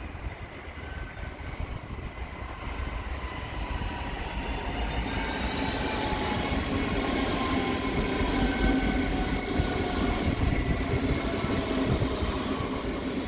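Train approaching and passing, growing steadily louder over a low rumble, with several thin whining tones that slowly fall in pitch.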